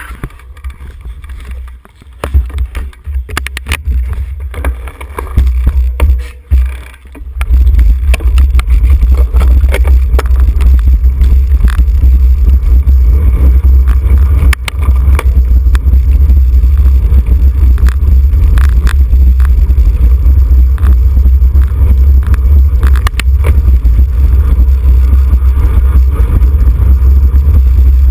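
Wind buffeting the microphone of a camera on a moving racing bicycle: a loud low rumble that breaks up and dips a few times in the first seven seconds, then holds steady.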